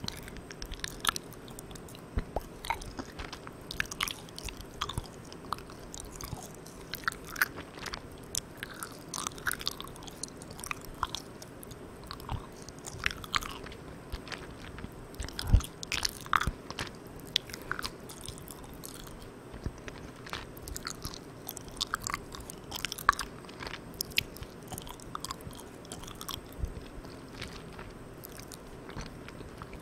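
Close-miked chewing of Malang Cow soft, sticky marshmallow candy: wet mouth clicks and smacks at an irregular pace, with one louder pop about halfway. A steady hiss sits underneath from the microphone gain turned all the way up.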